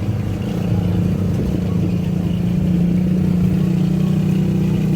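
Engine of a tourist road train running steadily at an even pitch, a loud low drone.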